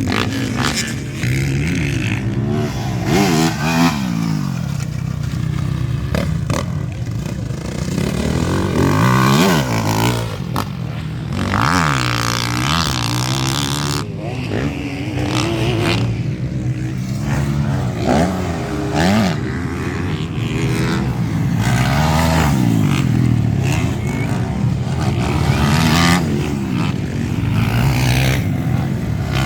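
Several MX1-class motocross bikes racing, their engines revving up and falling back over and over as they accelerate and shift through the gears, with more than one bike heard at once.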